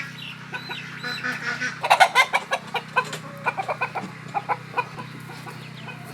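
Chickens clucking: a quick run of short, sharp clucks starting about two seconds in and thinning out near the end, over a steady low hum.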